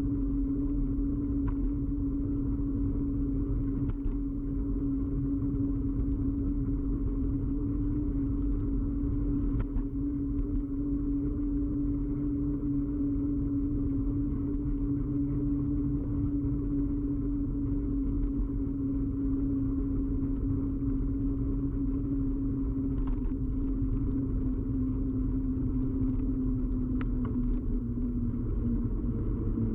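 Ride noise of a moving bicycle picked up through the bike-mounted camera: a steady low rumble with a droning hum that sinks slightly in pitch near the end, and a few faint ticks.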